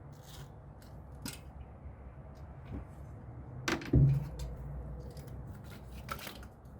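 Hand tools and metal parts clinking and rattling as they are handled, with a louder metal knock about four seconds in.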